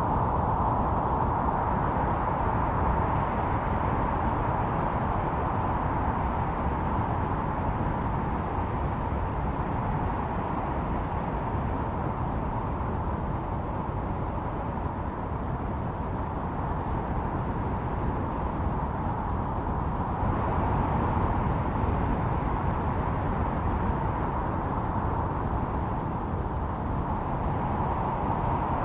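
Howling blizzard wind: a steady rush with a hollow tone that swells and eases slowly, strongest near the start and again about two-thirds of the way through.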